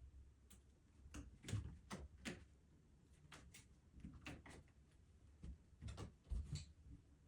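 Faint, irregular light taps and clicks, a dozen or so scattered through, as a kitten plays with a small object.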